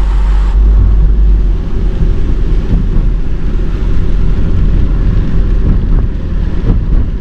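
Car driving in strong storm wind: heavy wind rumble on the microphone over the vehicle's running and road noise.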